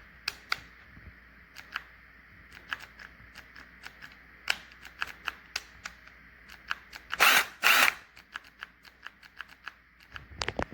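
Cordless impact wrench handled with many scattered clicks, then run in two short bursts about half a second apart, with a brief third burst near the end.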